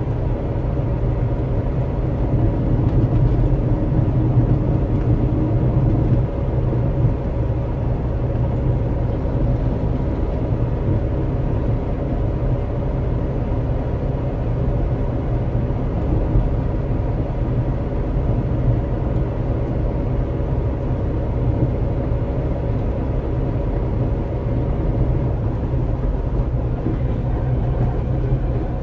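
Trabant 601's two-cylinder two-stroke engine running steadily while the car drives along a city street, heard from inside the cabin. The engine note stays even throughout, a little louder for a few seconds near the start.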